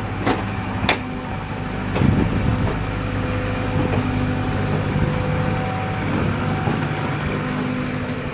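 Tour boat's engine idling with a steady hum; two sharp clicks in the first second.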